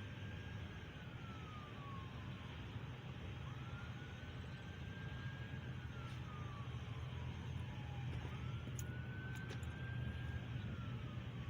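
A siren wailing faintly in the distance: its pitch slowly rises, holds, then falls, repeating about every four and a half seconds, over a steady low hum.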